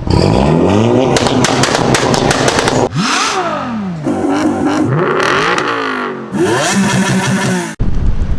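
Modified car engines revving hard, their pitch rising and falling again and again, with rapid exhaust crackles and pops. The sound jumps abruptly twice, about three seconds in and near the end, as separate clips are cut together.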